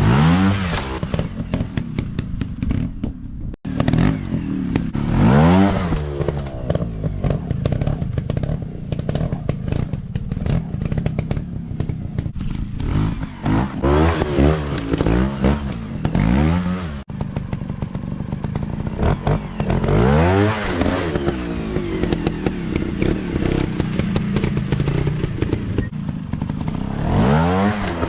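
Small dirt-bike engines revving up and easing off again and again, about five surges, over a steady clatter of knocks. The sound breaks off sharply twice.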